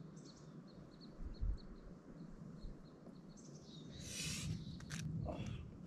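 A small bird chirping: a run of short, high chirps, then a call falling in pitch about three and a half seconds in. A low thump comes about a second and a half in, and a brief rush of noise and a few sharp scrapes come near the end.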